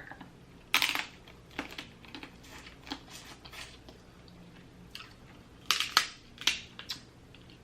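Close-miked mukbang eating sounds from a seafood boil: a run of irregular sharp cracks, clicks and crunches of food being broken apart and chewed, loudest about six seconds in.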